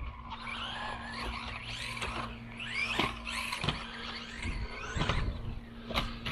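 Losi Mini-B RC buggy's brushless motor whining, its pitch rising and falling again and again as the throttle is worked, with a few sharp knocks as the car runs over the track.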